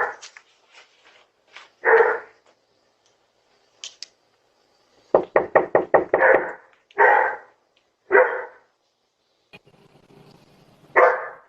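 A dog barking in short, separate barks, with a quick run of barks about five seconds in.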